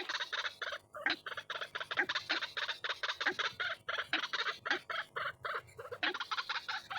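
White-breasted waterhens calling: a continuous run of harsh, rapidly repeated notes, several a second.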